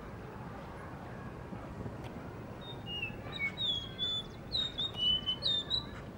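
Blue whistling thrush singing: a run of clear whistled notes with short slides up and down, starting about two and a half seconds in.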